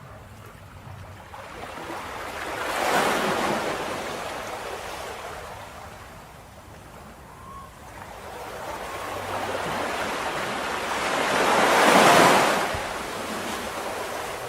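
Ocean waves breaking on a shore: two waves swell and crash, one about three seconds in and a louder one about twelve seconds in, each washing back out.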